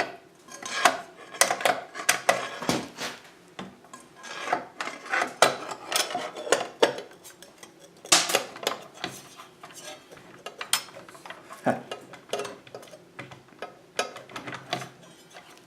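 Irregular light metal clinks and clatter as a steel saw blade, its blade washers and arbor bolt are handled and fitted onto a 10-inch miter saw's arbor.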